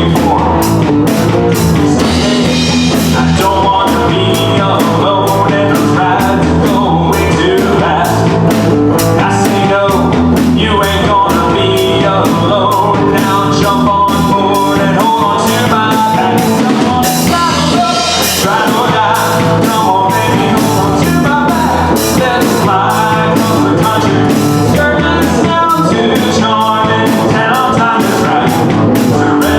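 Live band playing an up-tempo country-rock song, with a drum kit keeping a steady beat under guitars.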